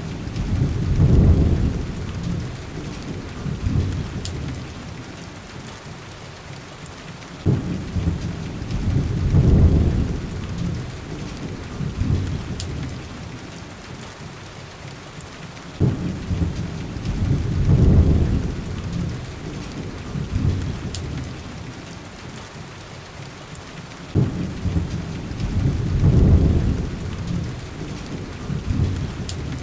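Steady rain on a window glass, with a deep rumble that sets in suddenly and swells and fades about every eight seconds, and a few faint clicks.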